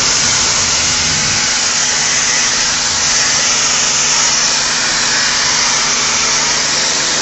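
Motor-driven cleaning sprayer running steadily: a loud, even spraying hiss over a low motor hum, cutting off suddenly at the very end.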